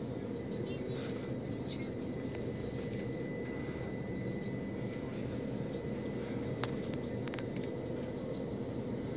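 Steady rumble of a moving train heard from inside the carriage, with faint scattered squeaks over it and a couple of sharp clicks about seven seconds in.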